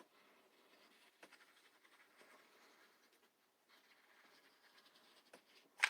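Faint scratching and rustling of cardboard pieces being handled and pressed together, with small ticks and one sharp click near the end.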